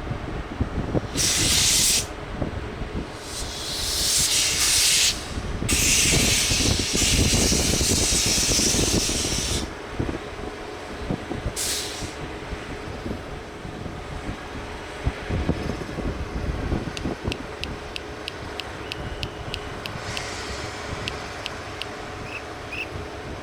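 Indian Railways passenger train running with a steady rumble. Loud hissing comes in four bursts in the first ten seconds or so, and a run of light, quick clicks follows later on.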